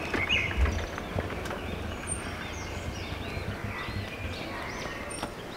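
Birds chirping in short repeated calls over a low outdoor rumble, with a few faint clicks.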